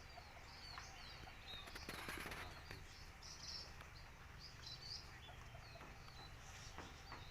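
Wild birds chirping: many short, high calls repeating throughout, faint. There is a brief rustle about two seconds in.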